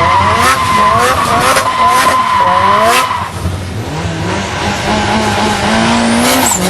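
Car tyres squealing in a slide while the engine revs up and down; about three seconds in the squeal stops and the engine pulls to a higher, held rev that drops off near the end.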